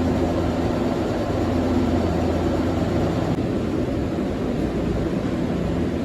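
Ferry's diesel engines droning steadily, a low even hum under a wash of noise.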